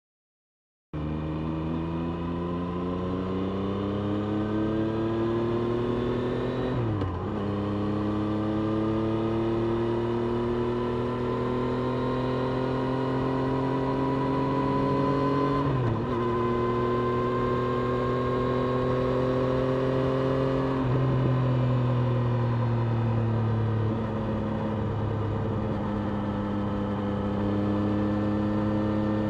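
Triumph Street Triple RS 765 cc inline-three engine heard onboard, pulling with its pitch climbing steadily. It drops sharply at two upshifts, eases off with falling pitch about two-thirds through, then pulls again.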